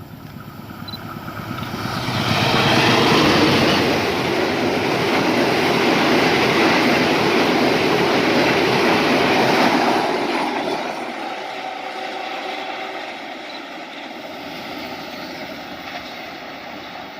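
Argo Wilis express passenger train passing by. The rumble and rush of the train build over the first two seconds, stay loud for about eight seconds as the carriages go by, then slowly fade as it moves away.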